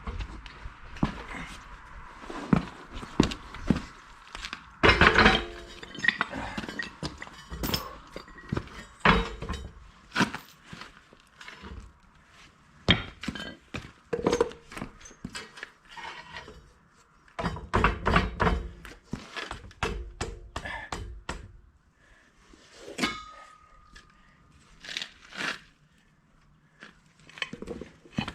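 Irregular thunks, knocks and clinks of metal being handled: a Predator small engine being set on and shifted about a steel adapter plate while its bolt holes are marked.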